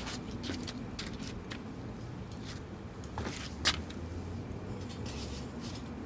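Scattered small clicks and rustles of things being handled, with one sharper click a little past halfway, over a faint steady low hum.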